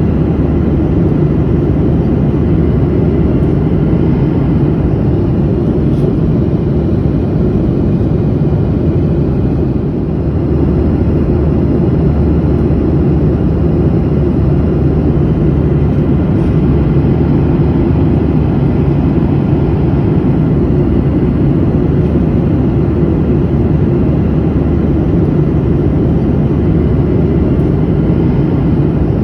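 Steady in-flight cabin noise of an airplane: a continuous low roar of engines and rushing air, heard from inside the cabin.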